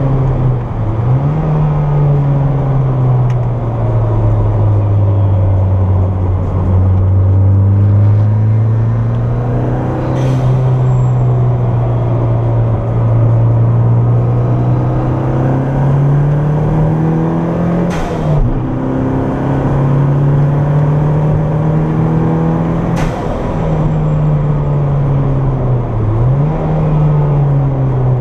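Turbocharged Toyota MR2 four-cylinder engine, heard from inside the car, pulling under throttle on track. Its pitch climbs and then drops sharply at gear changes about a second in and three more times later on, with short sharp clicks at some of the shifts. The car is on a run-in tune at 8 psi of boost, which the owner says has a big miss around 4500 rpm.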